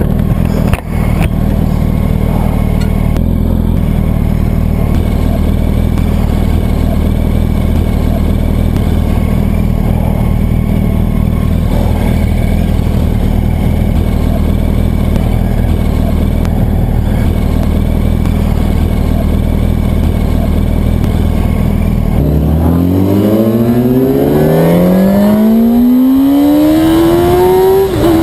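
Yamaha R1 sportbike's inline-four engine running at a steady cruise, then about 22 seconds in it revs up in a long rising pitch as the bike accelerates, with a brief dip just before the end.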